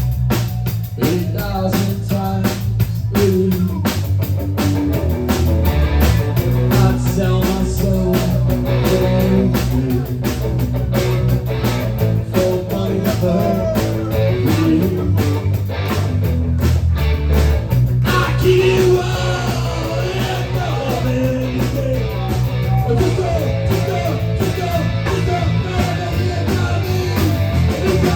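Rock band playing: drum kit keeping a steady beat under guitar and bass, with singing about halfway through.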